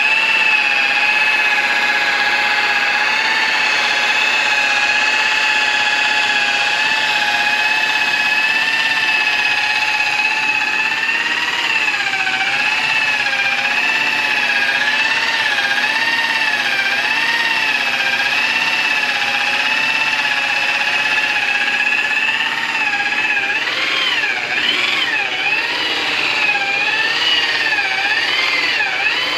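Electric polishing machine running with a steady whine, its pitch wavering up and down from about twelve seconds in and more sharply near the end.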